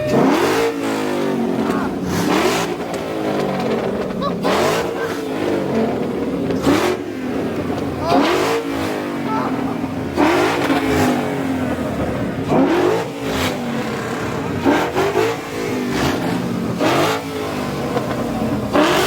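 Car engine being revved hard in neutral, over and over, the pitch climbing and dropping back about every two seconds, with sharp cracks near the top of many of the revs.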